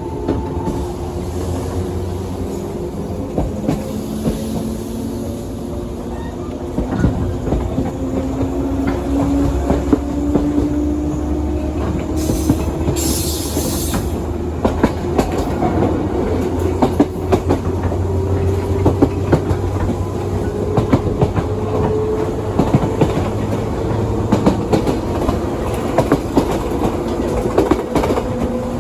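Onboard sound of a JR 117 series electric train running: wheels clattering steadily over rail joints with a low rumble. The traction motors whine, their pitch rising slowly through most of the stretch as the train gathers speed. A short hiss comes about twelve seconds in.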